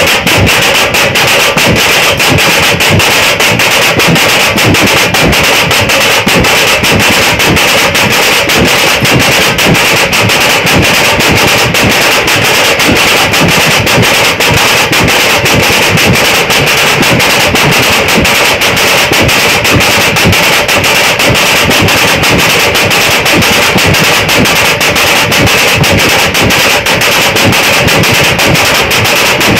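Dhol-tasha drum troupe playing loud, fast, continuous drumming: a dense roll of rapid stick strokes on the tashas over the dhols.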